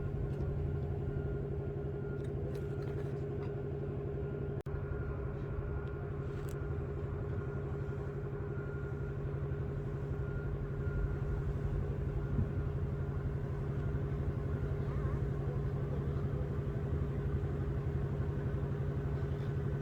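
Engine running steadily, a constant hum with a higher steady whine above it.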